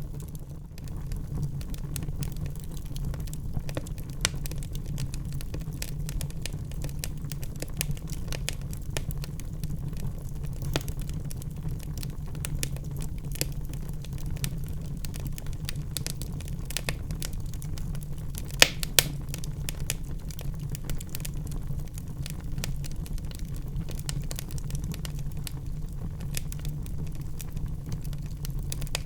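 Wood fire burning in a fireplace: a steady low rumble of flames with many small crackles and snaps, and two louder pops about two-thirds of the way through.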